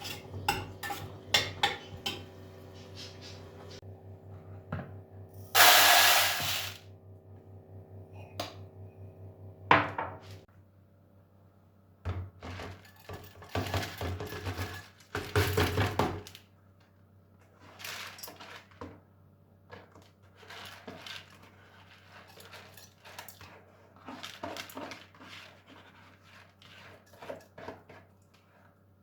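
Kitchen cooking sounds: utensils, pots and dishes clinking and knocking irregularly, with two short loud rushing bursts about six and fifteen seconds in. A low steady hum stops about ten seconds in.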